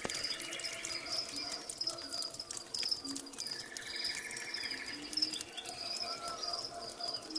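Birds and insects chirping: a steady high, pulsing cricket-like chirp runs throughout, with two rattling trills of about a second and a half each and a few short bird calls. Scattered light clicks sound over them.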